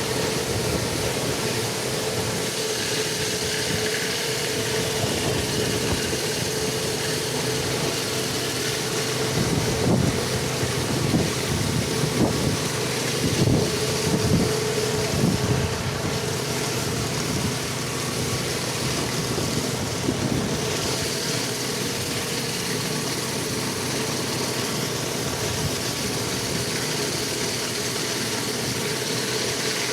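Pressure washer's gas engine running steadily, with a constant drone and hiss. A run of louder knocks comes about a third of the way in.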